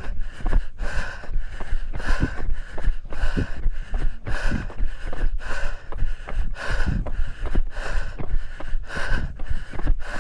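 A runner's hard, rhythmic breathing on a steep uphill trail, about one loud breath a second. Footfalls on the trail and low wind rumble on the microphone lie beneath.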